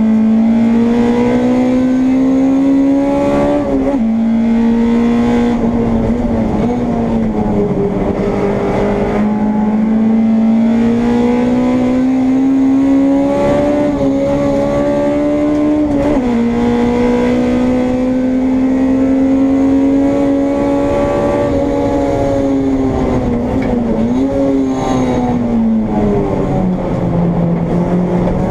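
Honda Integra race car's four-cylinder engine at racing speed, heard from on board: the engine note climbs slowly under power and falls suddenly several times at gear changes or lifts.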